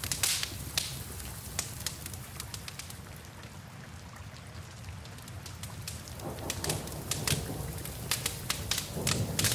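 Wood fire crackling and popping in a fireplace over a steady low rumble, with rain hissing behind it. The pops thin out in the middle and come thick and fast again near the end.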